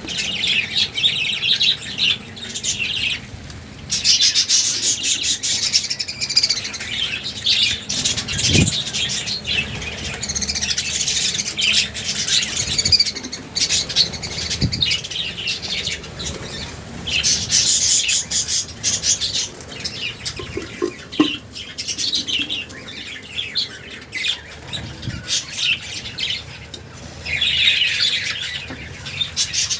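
Several budgerigars chirping and chattering, the chatter swelling and fading in bursts, with occasional wing flutters.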